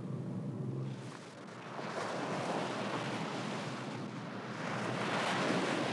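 A low engine rumble fades out about a second in. Ocean surf then washes in, swelling to its loudest near the end.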